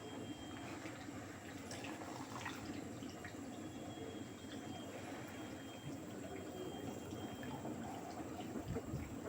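Water running and splashing inside the drum of an LG 8 kg direct-drive front-loading washing machine during a cotton wash cycle, a steady wash with small scattered ticks.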